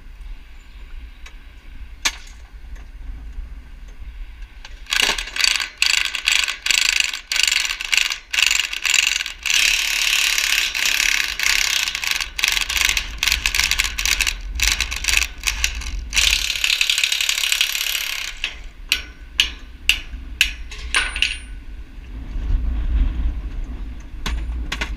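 Winch on a tilt-down floodlight mast being worked, its ratchet pawl clicking rapidly from about five seconds in until about eighteen seconds, then a few separate clicks.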